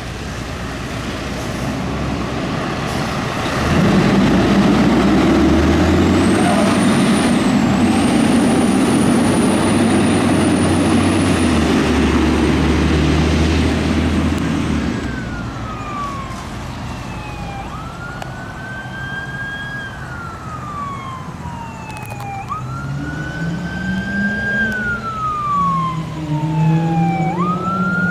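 Fire engine responding: the heavy truck's engine runs loud for about ten seconds, then its siren wails, sweeping up and down in pitch over and over through the last dozen seconds.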